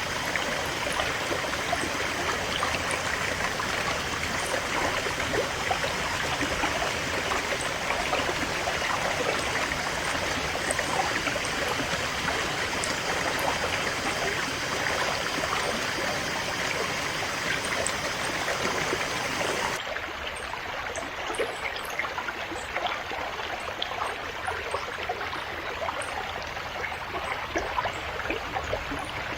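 River water flowing steadily over rocks, with many small splashes. About two-thirds of the way through it switches suddenly to a quieter, thinner flow.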